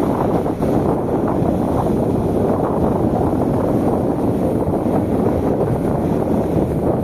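Steady low rumble of wind buffeting the microphone, over the wash of Mediterranean sea waves.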